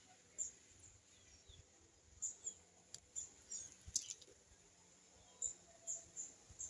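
Small birds at a feeding tray giving short, high chirps, scattered every second or so, with one sharp tap about four seconds in.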